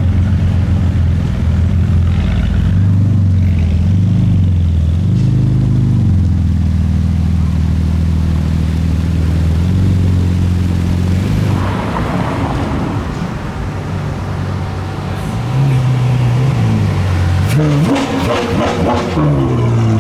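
Car engines idling low, blipped in short revs, with a louder rev rising and falling near the end.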